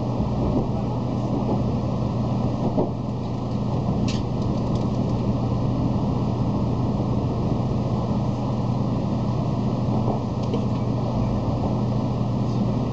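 Cabin running noise inside a 700-series Shinkansen car: a steady rumble with a low hum, and one brief sharp click about four seconds in.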